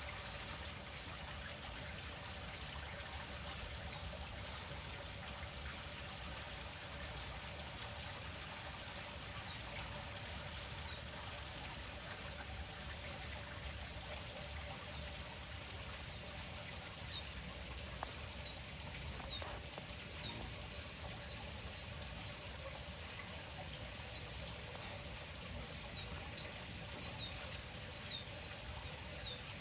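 Small birds chirping: a series of short, high, quickly falling chirps that come more and more often through the second half, with one louder chirp near the end, over a steady background hiss.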